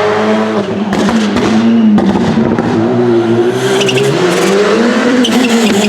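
Rally car engine running hard on the stage, its pitch dipping and climbing again with the throttle, with a few short sharp cracks.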